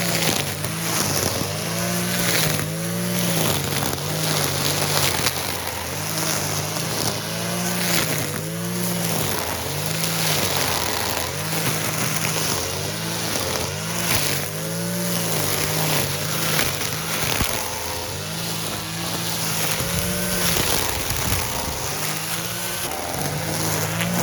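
Small-displacement brush cutter engine running hard, its pitch repeatedly rising and falling as the throttle is opened and eased while cutting grass.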